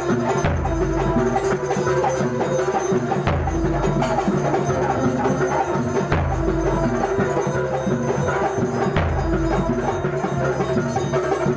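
Kuntulan ensemble playing in rehearsal: steady traditional percussion with sharp wood-block-like strokes and held melodic tones over it. A deep low stroke comes about every three seconds.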